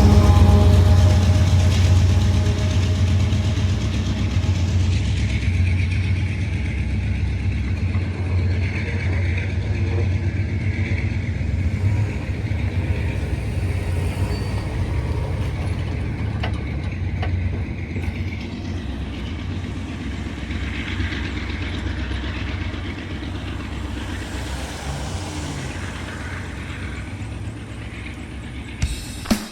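Union Pacific freight train rumbling past, the low rumble slowly fading over the whole stretch.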